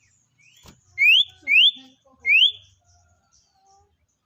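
A bird calls three times, each a short, loud, clear whistle rising sharply in pitch.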